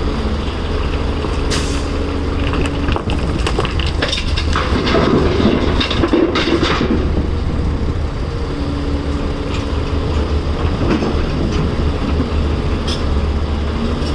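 Caterpillar 336 excavator's diesel engine running steadily under load, with a stretch of rock and dirt clattering and knocking for several seconds from about a second and a half in, as a load is dumped into a dump truck.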